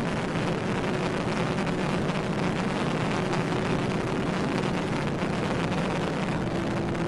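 Steady road, wind and engine noise inside a patrol car running at high speed in pursuit, with a faint steady hum underneath.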